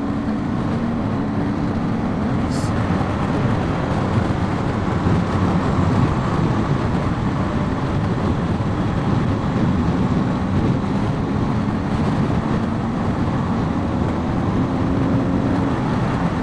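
BMW R1250GS boxer-twin motorcycle engine under way, its note rising and falling a little with the throttle, under heavy wind and road rush as heard from a microphone inside the rider's helmet.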